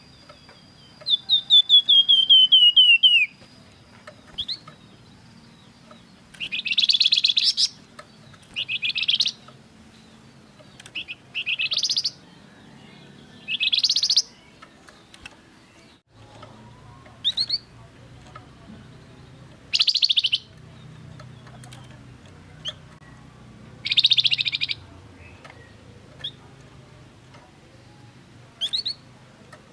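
Songbird known to Indonesian bird keepers as a flamboyan, singing in short, loud, high trilled phrases every second or two. It opens with a fast trill that falls in pitch.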